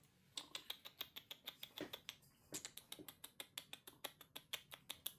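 Faint, quick wet clicking and smacking, about six clicks a second, from baby monkeys sucking and lapping up milk.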